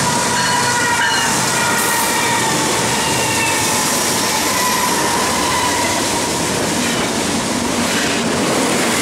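BNSF diesel locomotives and double-stack container cars of a freight train passing close by at speed, a loud steady rush of wheel and rail noise. Thin high tones ring over it in the first few seconds and then fade.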